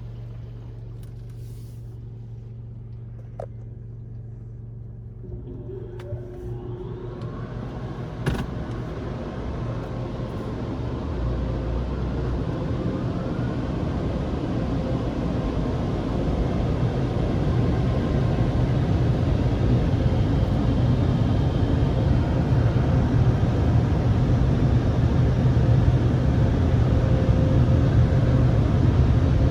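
Touchless car wash dryer blowers spinning up with a rising whine about five seconds in, then a rushing blast that keeps growing louder over a car's steady idling hum.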